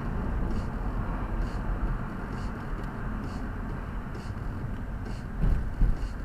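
Car running on the road, heard from inside: a steady low engine and road rumble, with a faint tick repeating a little more than once a second and a couple of low bumps near the end.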